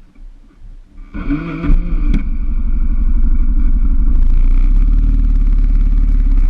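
Yamaha XTZ660 Ténéré (3YF) single-cylinder motorcycle engine starting about a second in and then running steadily.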